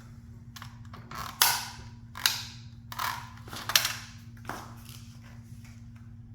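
Toy sports car being crushed under a high-heeled shoe: a series of sharp cracking crunches, the four loudest coming about one to four seconds in, over a steady low hum.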